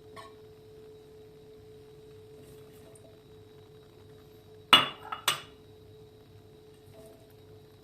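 Two sharp clinks of kitchenware, dishes or utensils knocking together, a little past halfway through, over a steady faint hum.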